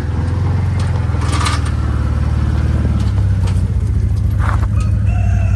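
Small utility vehicle engine running steadily close by, getting a little louder partway through, with a brief rattle about a second and a half in. Ducks start quacking near the end.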